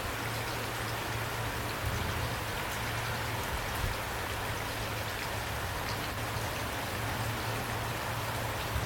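Steady rain falling, with scattered drops ticking on a surface over an even hiss and a low, constant rumble underneath.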